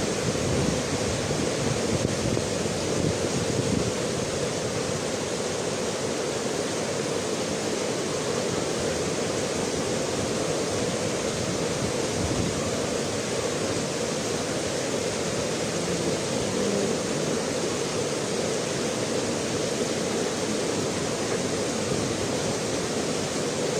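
Steady rushing roar of a swollen river in flood after a tropical storm.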